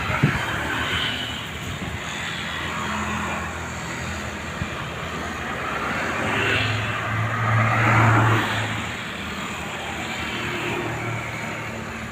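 Strong wind blowing in gusts, rising and falling in waves, with the loudest gust about two-thirds of the way through.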